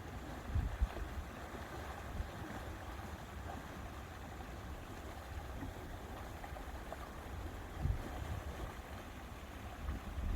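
Lakeside ambience: a steady wash of water and wind, with low wind rumble on the microphone that gusts briefly twice, once near the start and once about eight seconds in.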